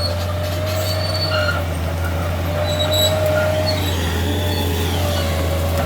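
Diesel engine of a heavy tree-clearing machine running steadily, with a wavering mid-pitched whine over the engine drone and short high squeaks from its moving parts.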